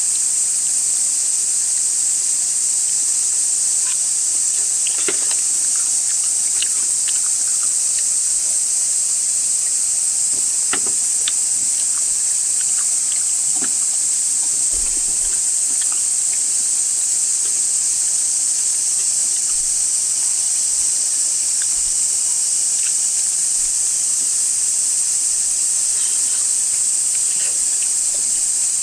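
Dense chorus of cicadas, a steady high shrill buzz with no let-up, with a few faint clicks and knocks scattered through it.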